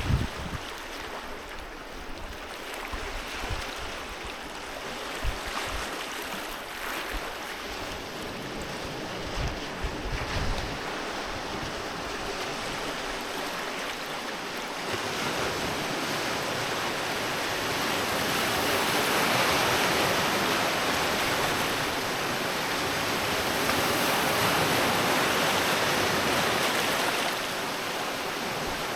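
Sea waves breaking and washing ashore, a continuous surf that swells louder twice in the second half. Wind buffets the microphone in the first ten seconds or so.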